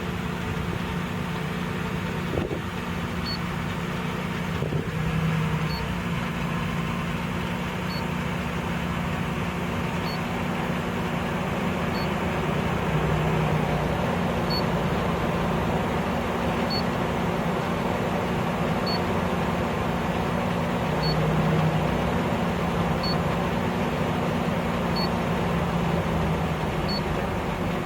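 2005 Ford Explorer engine idling rough and low, around 600 RPM, swelling slightly now and then. The rough idle comes from dark carbon gunk on the throttle body that keeps the throttle plate from closing fully, as the owner finds.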